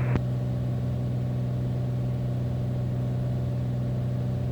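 Steady drone of a Beechcraft Bonanza's piston engine and propeller heard inside the cockpit, holding an even pitch and level on final approach.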